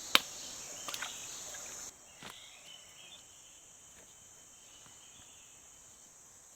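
Steady high-pitched insect chorus, which drops sharply in loudness about two seconds in. A few sharp clicks come in the first couple of seconds.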